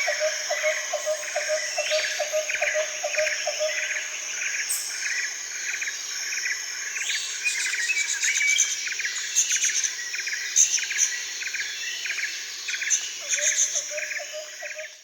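Several birds calling with quick repeated chirps over a steady, high insect drone. One bird's lower note repeats about three times a second, stops about four seconds in and comes back near the end.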